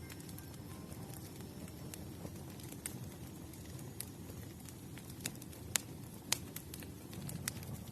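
Wood campfire burning with a low, steady rumble of flames and a few sharp crackling pops, more frequent in the second half.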